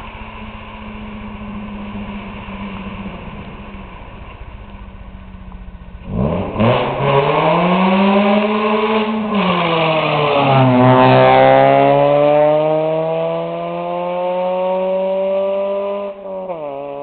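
Ford Focus ZX3's naturally aspirated four-cylinder engine idling, then revved hard about six seconds in for a burnout. The revs climb, fall back briefly and climb again for several seconds as the car pulls away, dropping in pitch near the end.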